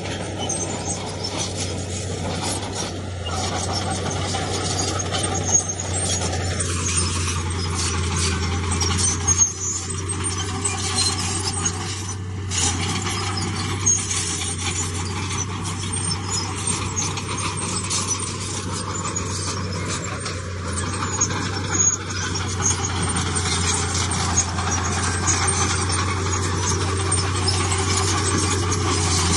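Heavy diesel earthmoving machinery running steadily with a low engine hum, with scattered metallic clanks and rattles throughout.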